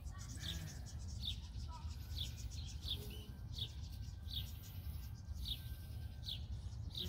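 A bird calling over and over, about nine short high chirps that slur downward, evenly spaced a little under a second apart, over a low steady rumble.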